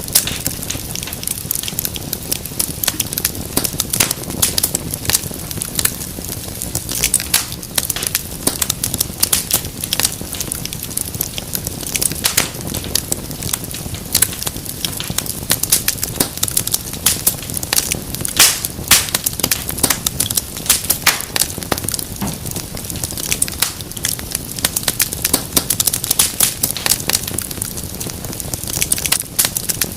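Wood fire crackling and popping steadily, with many sharp snaps over a low rumble of flame.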